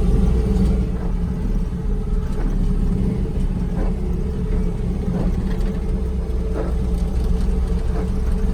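Bobcat T650 compact track loader's diesel engine running steadily, heard from inside the closed cab, with a few faint taps over it.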